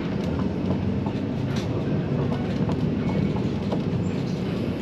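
Inside a moving bus: the engine and road noise make a steady low rumble, with small rattles and clicks scattered through it.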